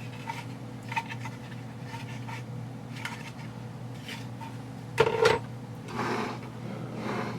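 Handling noises from an APS UAR airsoft rifle being taken apart: scattered light clicks and rubbing, with one sharper knock about five seconds in, over a steady low hum.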